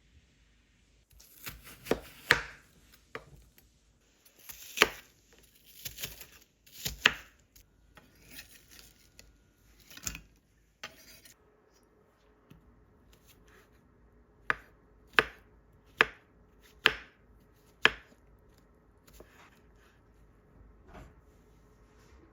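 Knife chopping on a cutting board: a few irregular cuts, then a run of five sharp chops about a second apart.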